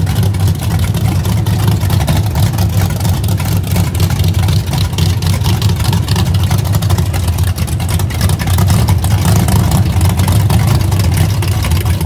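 A street-race SUV's engine running loudly and steadily at the staging line, a deep low rumble with no big revs.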